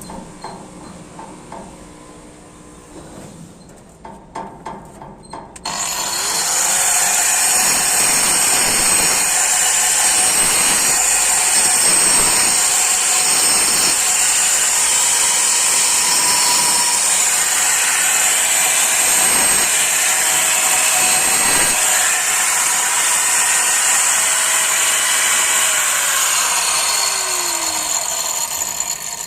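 An electric angle grinder cuts into the masonry of a parapet to open up its cracks. A few light knocks come first, then the grinder starts suddenly about six seconds in and runs steadily under load. Near the end it winds down with a falling whine.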